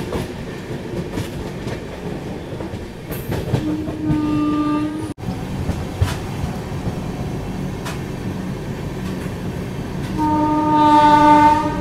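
Running noise of an express train heard from on board, a steady rumble with rail clicks. The locomotive horn sounds twice as a steady held tone: for about a second and a half some four seconds in, breaking off abruptly, and again near the end, louder.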